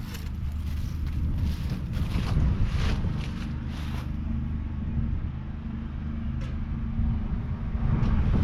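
JCB Fastrac 4220's 6.6-litre six-cylinder diesel engine running steadily, with gusts of wind buffeting the microphone in the first half and again near the end.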